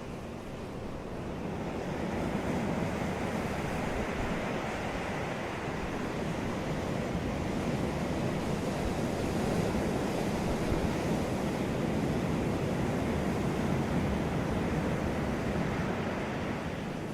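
Sea waves breaking and washing up a beach: a steady hiss of surf that swells about two seconds in, holds, and eases off near the end.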